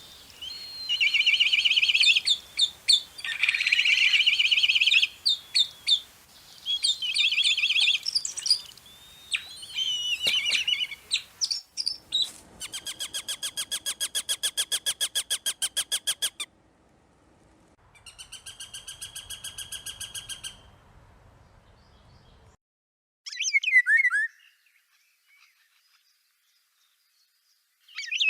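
Birds singing and calling: a run of high chirps and warbles, then two fast, even trills of about ten notes a second, then short down-slurred calls. The background noise drops out abruptly about two-thirds of the way in, as at an edit.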